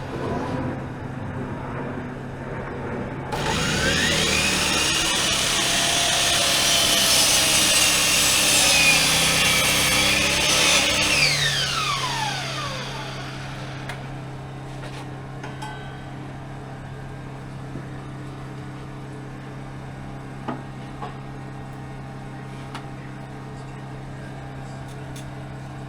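Electric power saw cutting through wood for about eight seconds, starting a few seconds in; its whine rises at the start and falls away as the blade winds down after the cut. A steady low hum continues underneath.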